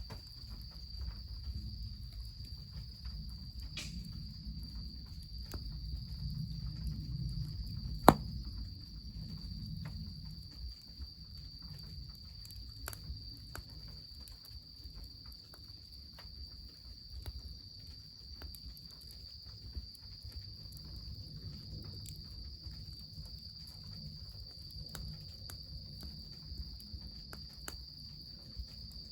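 A steady high chirring of insects, with scattered small crackles from a wood fire and a low rumble underneath that swells a few seconds in. One sharp crack stands out about eight seconds in.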